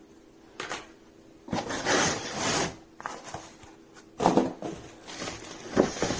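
Vacuum parts and their packaging being handled during unboxing: a few bursts of rustling and rubbing, the longest about a second and a half in, with a couple of light knocks.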